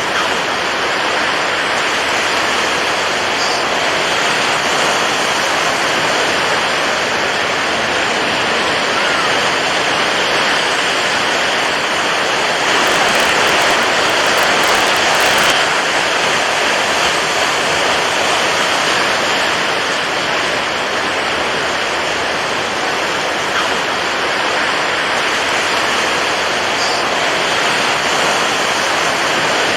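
Water waves making a steady, continuous rushing noise, swelling a little louder about halfway through.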